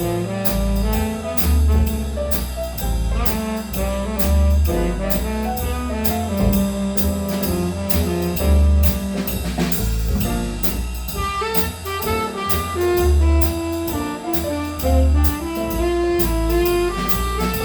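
Jazz band playing a standard: horn lines over a moving bass line and drum kit keeping a steady beat.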